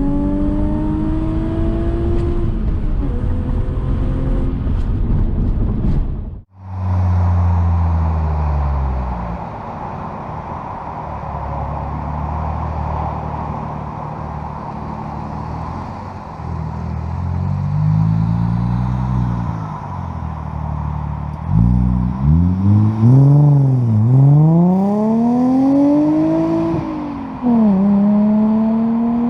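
2003 Audi A4's 3.0-litre V6 through a custom exhaust, heard from outside the car. It accelerates with rising pitch, breaks off abruptly, then eases off as the pitch falls. Near the end it revs up and down several times in quick succession, then accelerates steadily again after a short dip.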